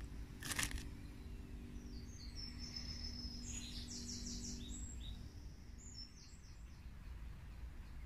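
Small birds singing in short chirping phrases over a steady low hum, with one short sharp crackle about half a second in.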